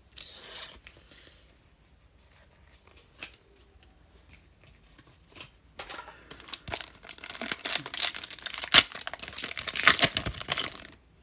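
Foil wrapper of a trading card pack being torn open and crinkled: a short rustle at first, then, about six seconds in, dense crackling that runs for several seconds.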